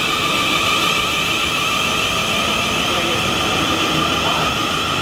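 South Western Railway electric train moving along the platform close by, with a steady high whine over a rumble of the carriages running past.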